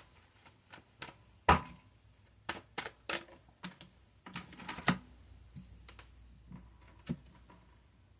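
Tarot cards being handled: a run of irregular sharp clicks and taps as cards are flipped and laid down, the loudest about a second and a half in.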